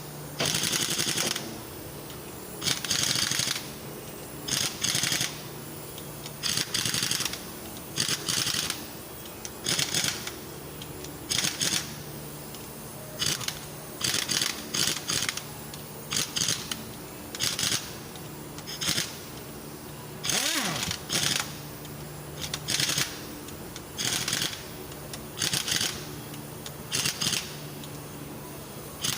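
Hand tool being worked in short strokes on metal, about one rasping or clicking stroke every second or so, over a steady low hum.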